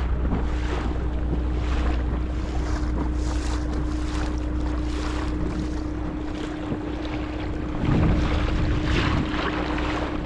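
Dinghy outboard motor running at a steady pitch, with wind buffeting the microphone and water rushing past the hull. A stronger gust of wind noise hits about eight seconds in.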